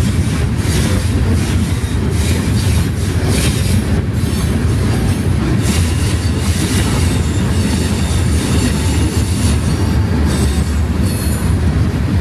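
Freight cars of a CSX mixed freight train, covered hoppers and tank cars, rolling past at speed: a steady rumble of steel wheels on rail, with frequent clicks as the wheels cross the rail joints.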